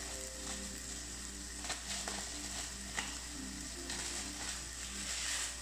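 Chopped tomatoes and green vegetables sizzling steadily in a hot frying pan on a gas stove, with a few faint clicks.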